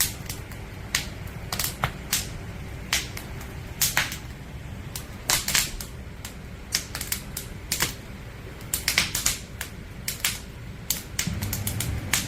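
Firewood burning in a campfire, crackling with irregular sharp pops and snaps that sometimes come in quick clusters, over a low steady rumble.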